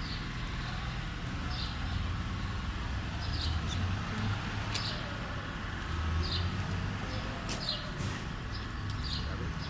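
Same Silver 130 tractor's engine running steadily at low revs, with a small bird chirping over it about once a second.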